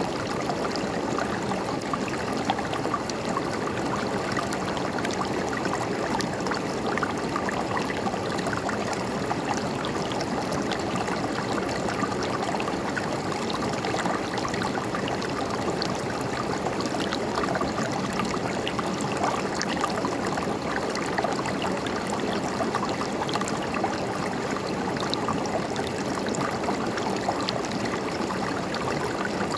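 River water running and gurgling over rocks in a steady wash, with small splashes flickering through it.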